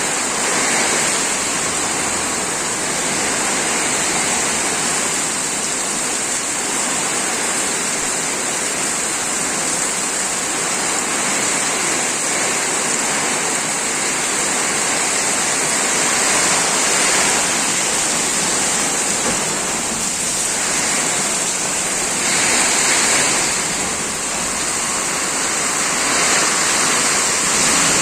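Heavy rain pouring down in a strong storm: a steady, dense hiss that swells a little a few times.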